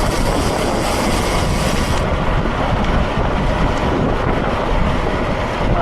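Wind buffeting a cyclist's camera microphone while riding, a steady loud rumble. The higher hiss thins out about two seconds in.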